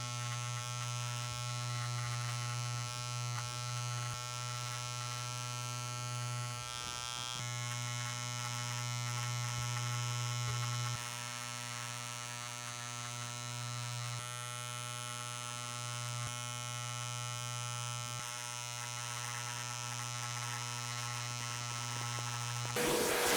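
Handheld electric rug-making tool (a tufting gun or carpet trimmer) running with a steady electric buzz and low hum. Just before the end a louder rushing noise cuts in.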